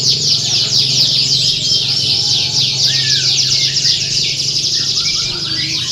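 Many domestic canaries singing at once in a dense, continuous chorus of rapid trills and chirps, like the massed song at a canary singing contest. A steady low hum runs underneath.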